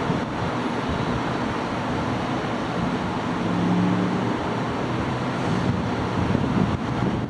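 Steady rushing, vehicle-like noise with wind on the microphone, and a low hum that grows stronger for about a second between three and four seconds in.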